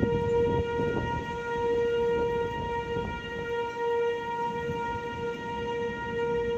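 American Signal T-121 outdoor warning siren holding one steady tone, its loudness wavering slightly, sounded for a severe thunderstorm warning. Wind rumbles on the microphone underneath.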